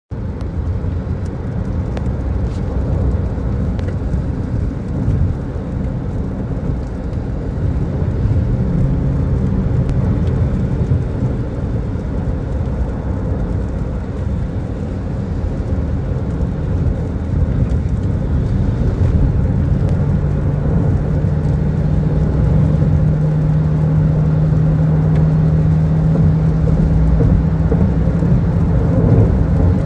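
Car driving on a rain-wet road: a steady low rumble of engine and road noise, with a steady engine drone that comes in about two-thirds of the way through.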